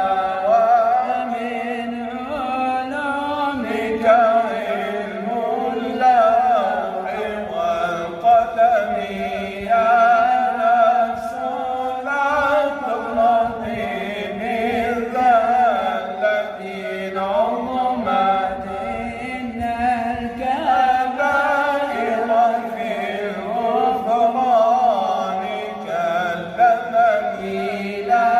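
A man chanting Arabic Islamic devotional verse, unaccompanied, in long ornamented phrases whose pitch constantly wavers and slides between notes.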